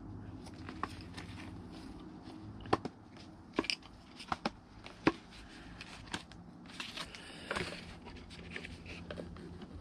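Plastic heater-box parts and blend door pieces being handled and pushed into place: scattered sharp clicks and knocks, with a short scrape near the end, over a steady low hum.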